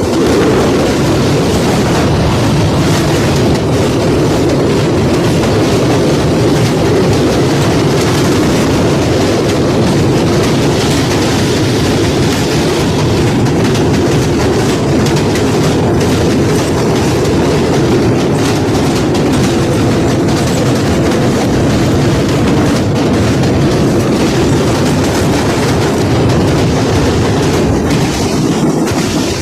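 Passenger train running steadily along the track: a loud, even rumble of the carriage and wheels on the rails, with a constant light clicking.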